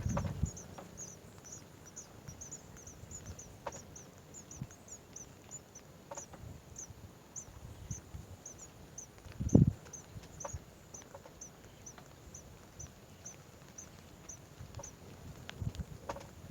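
Birds calling: a steady run of faint, short, high chirps, with a few soft low knocks and one louder thump a little past the middle.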